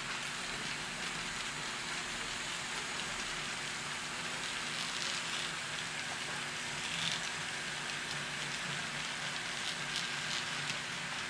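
Model train running along the layout track: a steady rolling hiss of wheels on rail, with a few faint clicks.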